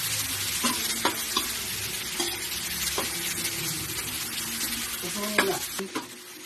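Pork with garlic and onion frying in a steel wok, a steady sizzle, while a spatula stirs it and knocks against the pan several times. The loudest knock comes near the end, and the sizzle drops off just after it.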